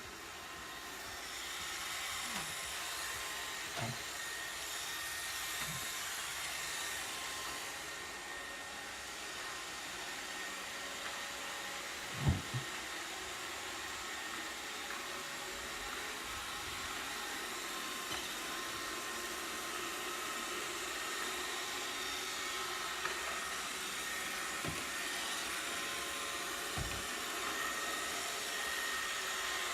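iRobot Roomba 690 robot vacuum running with a steady whir. A few short low knocks come through, the loudest about twelve seconds in.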